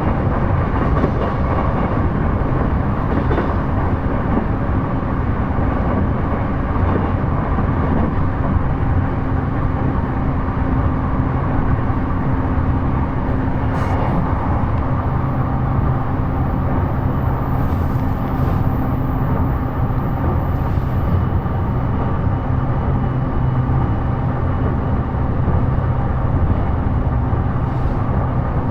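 E233 series electric commuter train running at speed, heard from inside the passenger car: a steady rumble of the wheels on the rails with a low hum. A couple of sharp clicks, one about halfway through and one near the end, and a faint high whine for several seconds in the middle.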